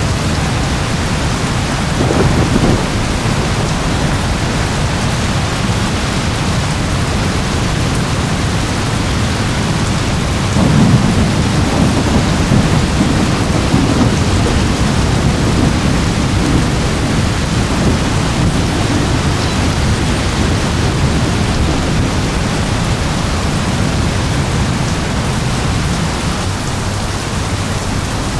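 Steady heavy rain hissing, with thunder rumbling low underneath: a short rumble about two seconds in, then a longer, louder roll of thunder starting about ten seconds in and slowly fading.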